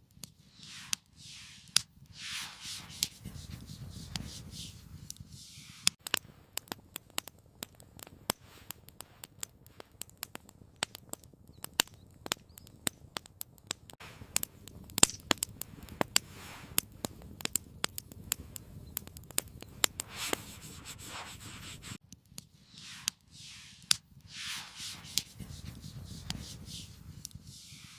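Campfire crackling: many irregular sharp pops over a faint hiss through the middle, with soft rustling and brushing sounds of handling in the first few seconds and again near the end.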